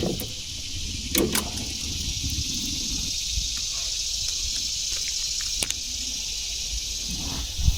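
Steady high-pitched chorus of insects, over a low rumble, with a short knock about a second in and a sharp click later on.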